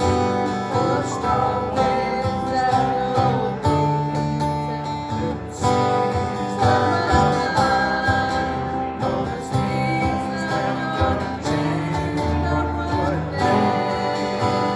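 Acoustic guitar strumming a steady country-folk accompaniment, with held melody notes over it and no words sung.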